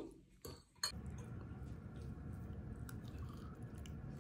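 A person chewing a forkful of taco bowl with rice, meat, lettuce and cheese, faint and close to the microphone, after a sharp click about a second in.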